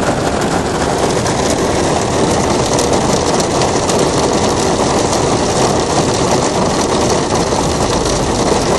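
Hailstones pelting down: a loud, steady, dense rattle of countless small impacts.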